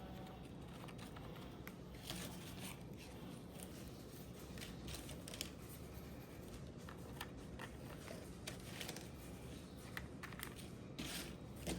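Faint scattered clicks, scrapes and rustles of things being handled, over a steady low hum.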